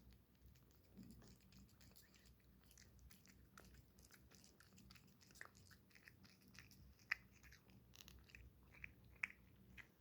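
A cat eating: faint chewing and small wet mouth clicks, with two sharper clicks about seven and nine seconds in.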